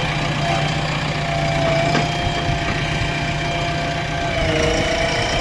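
Diesel engine idling steadily, with a fast even firing pulse.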